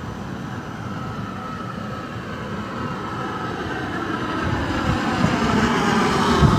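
CR200J3-C Fuxing train running into the station and slowing to stop. Its rumble grows louder from about four seconds in, with a faint whine falling in pitch.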